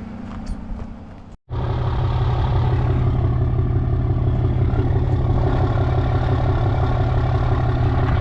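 Truck engine running steadily. After a brief cut about a second and a half in, it is louder, with a deeper steady tone.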